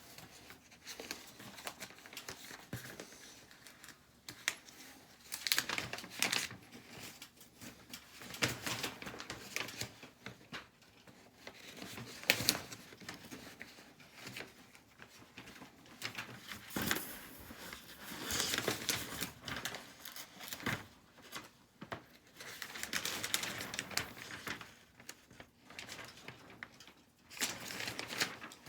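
Irregular rustling and crinkling with scattered knocks and clatters, like materials being handled during installation work in a small room.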